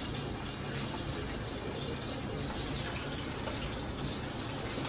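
Steak searing in a hot pan on medium-high heat, a steady, even sizzle.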